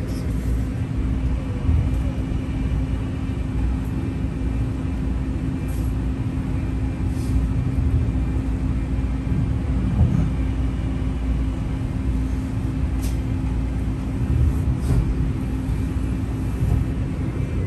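Long Island Rail Road passenger train running, heard from inside the car: a steady low rumble with a constant hum and a few faint clicks.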